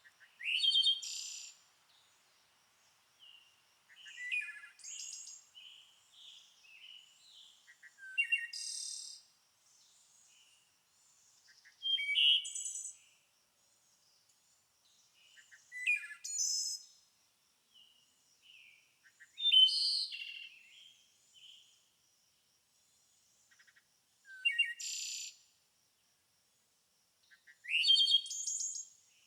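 A songbird singing, short bright phrases of chirps and trills, one about every three to four seconds, with softer chirps in between.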